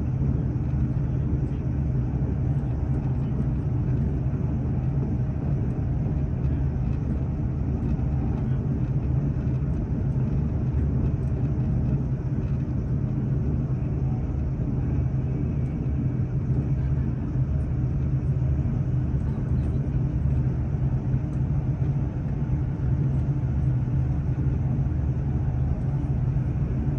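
Steady rumble and low drone of a moving train, heard from inside the carriage.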